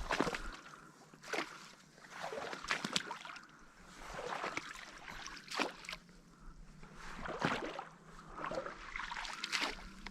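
Someone wading through muddy marsh water in neoprene waders, each stride sloshing and splashing, about one step a second.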